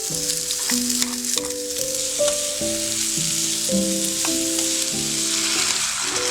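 Food frying in a pan: a steady sizzle with occasional sharp ticks of stirring, over gentle background music.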